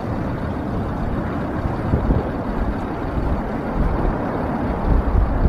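Strong wind buffeting the microphone, a low gusting rumble over a steady rushing roar of the B-52's jet engines.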